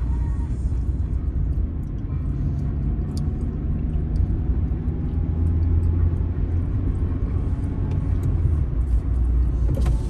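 Car driving along a road, heard from the driver's seat: a steady low rumble of engine and tyres that swells slightly midway.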